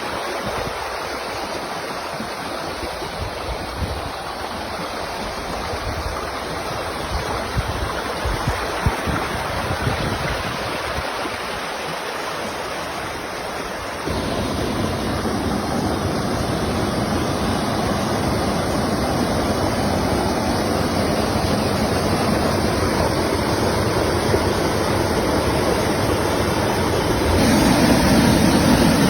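Steady rush of flowing water, getting louder about halfway through and again near the end.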